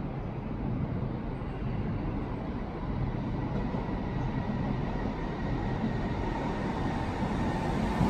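Southeastern Class 395 Hitachi electric multiple unit approaching along the platform: a steady low rumble that grows slowly louder as the train nears.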